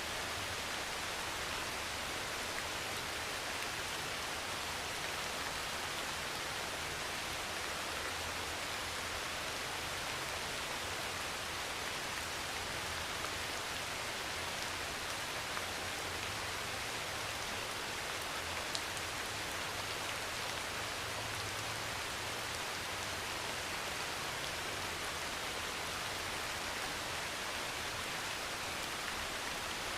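Heavy rain pouring steadily on a metal roof: a dense, even hiss with a few sharper drops ticking out of it.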